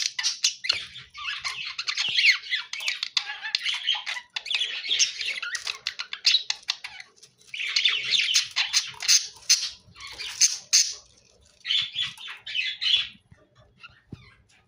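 Pet budgerigars chattering and squawking in bouts of a second or two with short pauses, falling quiet near the end.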